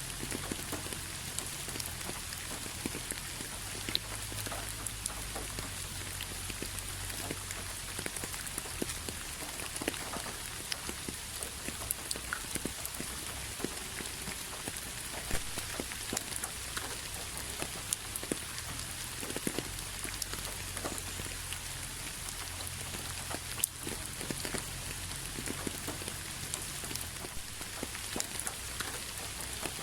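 Steady rain falling: an even hiss with many individual drops ticking sharply on a hard surface, over a faint low rumble.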